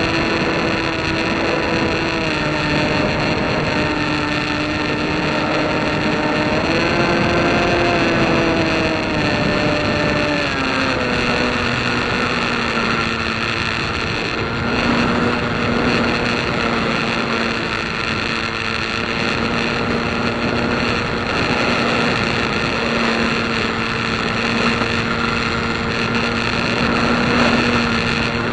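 Light aircraft engine running steadily under heavy wind noise; its pitch steps down about ten seconds in, as the power is eased off.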